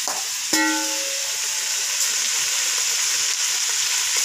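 Diced pork sizzling as it fries in a large aluminium pot, stirred with a metal ladle. A brief ringing tone sounds about half a second in.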